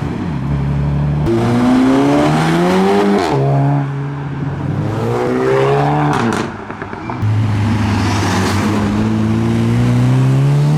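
Modified cars accelerating away, starting with a turbocharged R33 Nissan Skyline. Engine pitch climbs through the gears and drops at each shift, several times over, with a dip in level about two-thirds of the way through.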